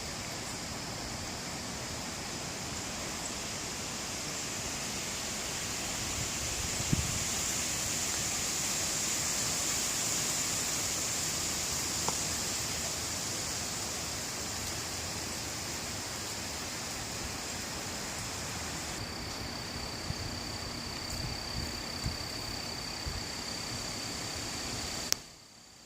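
Gusty wind rushing steadily through trees, swelling for several seconds in the middle. A steady high-pitched hiss runs over it, and a few faint knocks are heard. The sound cuts off abruptly near the end.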